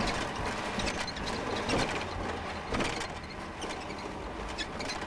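A John Deere riding lawn mower rattling and clattering as it is towed at speed, with quick irregular clicks over a steady rush of road and wind noise.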